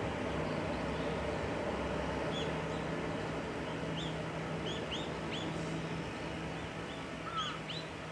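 Small birds chirping, with short high notes scattered throughout and one louder call near the end, over steady outdoor background noise and a low hum that fades out about six seconds in.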